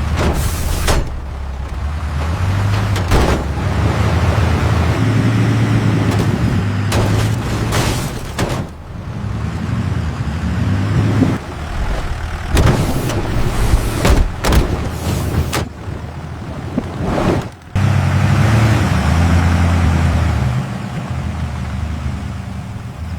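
Heavy military truck engines running in a string of edited clips, with a low rumble that changes pitch and level and breaks off abruptly at each cut.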